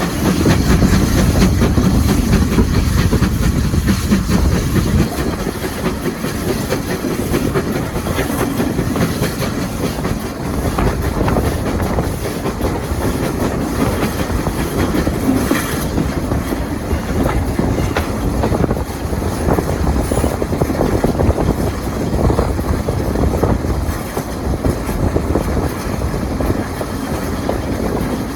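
Train running along the rails on a heritage railway: a steady, loud running noise with wheel clatter over the rail joints.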